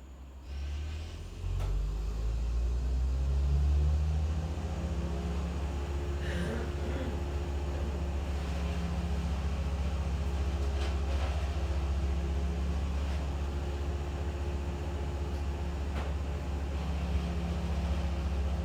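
An engine starts up about half a second in, grows louder in a step about a second later, then runs steadily at a low, even pitch, with a few sharp knocks or clicks over it.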